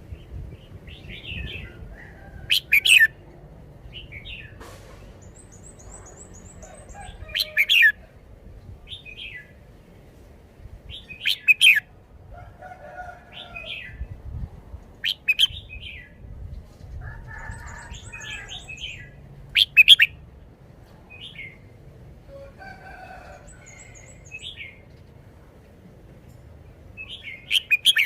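Red-whiskered bulbul singing: loud, short whistled phrases repeated every four seconds or so, with softer chirps in between. A high, rapid twittering comes in twice.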